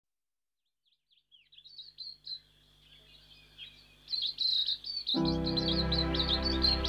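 Bird chirping in quick, high, repeated notes that start about a second in and grow busier. Soft music with held chords comes in about five seconds in, and the chirping carries on over it.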